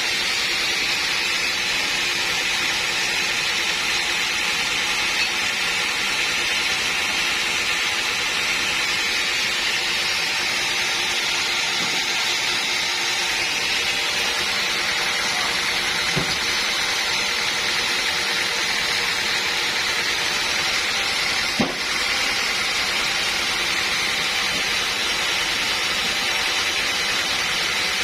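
Sawmill machinery running steadily, a constant mechanical hiss and hum, with a couple of faint knocks about midway and again later.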